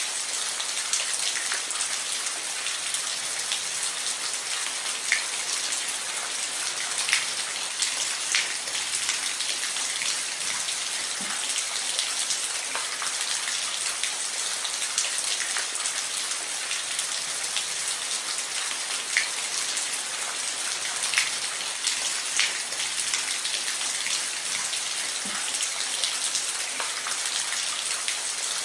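Steady rain falling on a roof, an even hiss with occasional sharper individual drops ticking through it.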